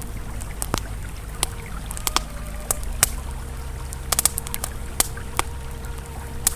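Campfire crackling, with irregular sharp pops, over the steady low rush of a flowing river.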